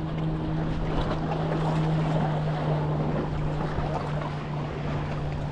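Seaside ambience: steady noise of wind on the microphone and waves on the shore, under a constant low hum.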